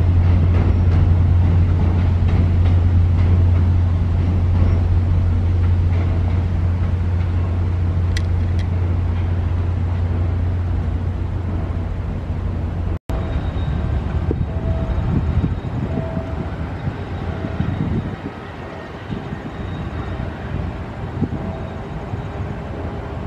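Commuter train passing over a steel rail bridge, with a loud, steady low drone from its diesel locomotive. The sound cuts off abruptly about halfway through, leaving quieter outdoor noise with wind on the microphone.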